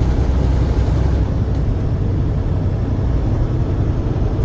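Truck running on the road: a steady low engine and road rumble.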